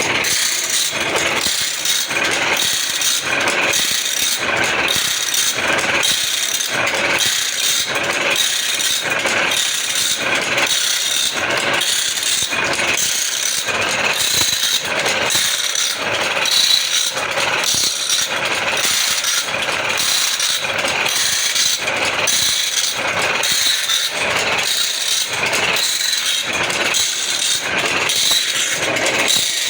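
Automatic band saw blade sharpening machine running: a steady rhythmic clatter of about one and a half strokes a second as it steps the blade along tooth by tooth, over a constant high grinding hiss.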